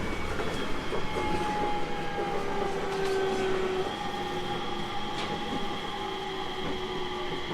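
701 series electric train running on the line: a steady rumble of wheels on rail with the whine of its electric drive, thin tones that slide slowly downward in pitch.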